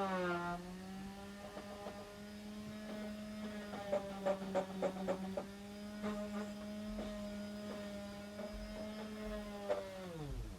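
Electric sander's motor running with a steady hum that sags in pitch briefly at the start. A run of sharp knocks comes about four to five seconds in. Near the end it is switched off and winds down to a stop.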